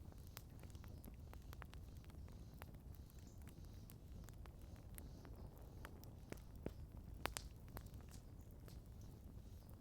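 Wood campfire crackling: irregular sharp pops and snaps, the loudest about seven seconds in, over a faint low rumble.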